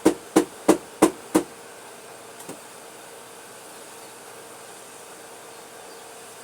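Rhythmic hard knocking, about three strikes a second, stopping about a second and a half in, then a steady faint hum.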